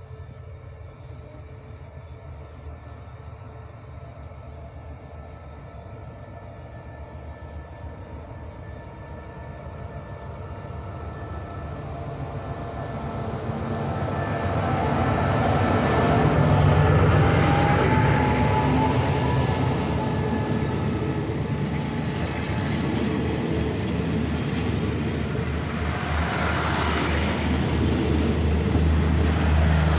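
SRT QSY-class diesel-electric locomotive number 5219 approaching with its engine running, growing steadily louder until it passes close by about halfway through. Its passenger coaches then roll past, loud and steady.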